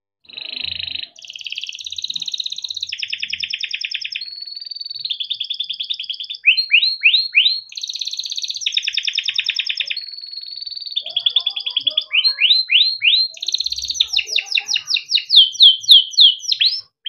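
Male domestic canary singing a long, unbroken song. It starts about half a second in with fast trilled rolls and mixes in runs of quick notes that fall in pitch.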